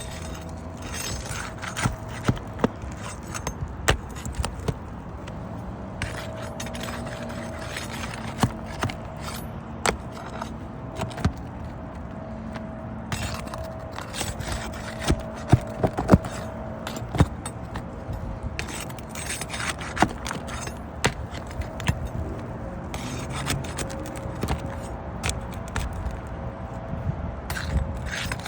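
Irregular sharp clicks, knocks and scraping, as of hard objects being handled, over a steady hum.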